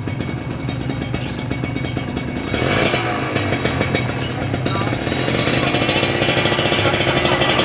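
Kawasaki Ninja two-stroke motorcycle engine running through a stainless racing exhaust, a fast even crackle; it gets louder about two and a half seconds in as the engine is revved and held up.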